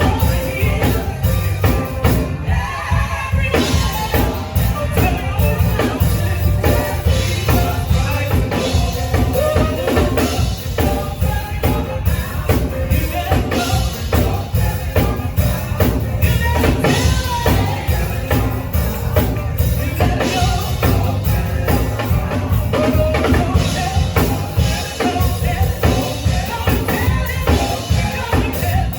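Live band music with a singing voice over a drum kit and a heavy bass line, playing steadily.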